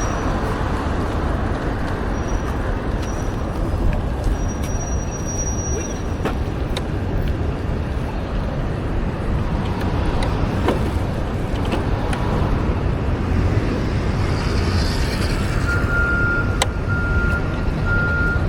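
City street traffic noise, a steady low rumble of passing vehicles. A repeating high beep starts near the end.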